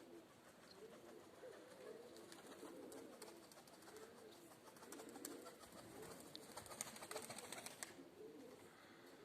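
Domestic pigeons cooing faintly and repeatedly, with a scattering of faint sharp clicks through the middle of the stretch.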